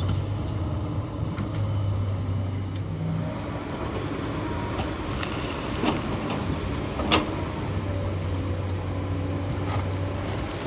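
Hyundai excavator's diesel engine running, with two sharp knocks about six and seven seconds in.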